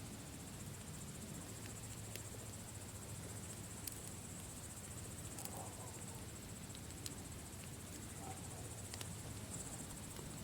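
Campfire crackling, with scattered sharp pops over a low steady rumble, while insects chirr steadily and high-pitched in the background.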